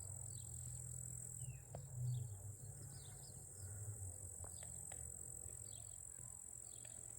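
Outdoor insect chorus, a steady high-pitched chirring like crickets, with scattered short chirps and a low hum underneath that swells about two seconds in.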